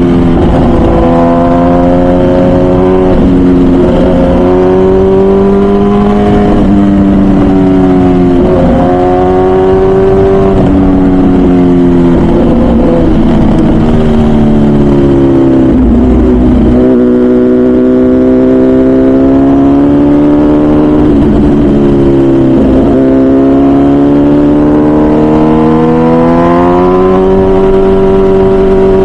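MV Agusta Brutale 1000RR's 998cc inline-four under way through a full titanium Arrow exhaust. It revs up and drops back over and over, with brief breaks in pitch as the gears change.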